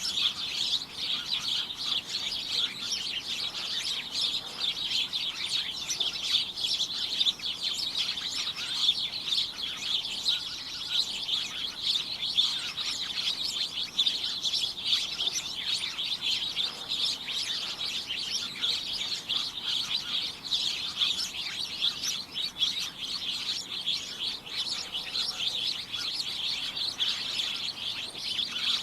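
A flock of small birds chirping continuously, many short overlapping chirps at once.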